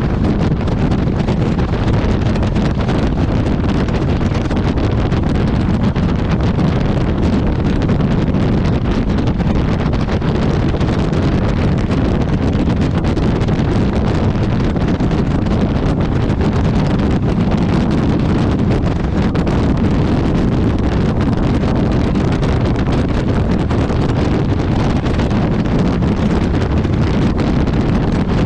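Steady wind rush buffeting the microphone of a motorcycle riding at speed, with the motorcycle's running and road noise mixed in underneath.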